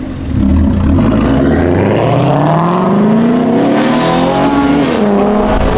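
Loud straight-piped car engine revving hard, its pitch climbing steadily for about three seconds, then dropping away near the end.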